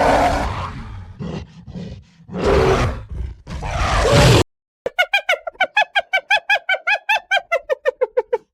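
Animal calls: first several rough, deep roar-like calls, then after a short break a fast run of short pitched calls, about six a second, falling slowly in pitch.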